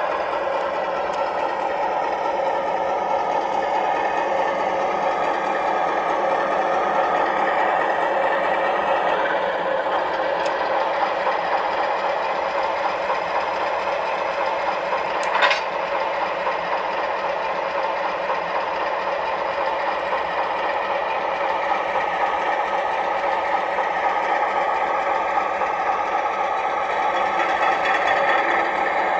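O gauge model locomotive running on the layout, its onboard sound system playing a steady engine rumble. There is one short sharp click about halfway through.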